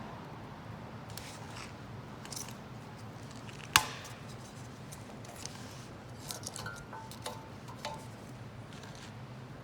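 Wood fire crackling in a homemade can-type wood-burning stove: irregular small crackles and clicks over a steady low rumble, with one sharp loud snap about four seconds in.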